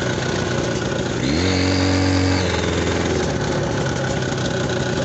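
Buran snowmobile's two-stroke engine running at idle. It is revved up about a second in, held for about a second, then drops back to idle.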